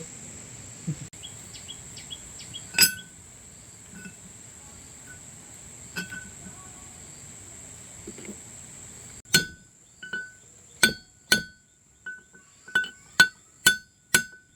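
Sharp metal-on-metal clinks, each with a brief ring. A few come scattered at first, then about ten strike in quick, uneven succession over the last five seconds: hammer or tool blows on steel parts during the bearing repair.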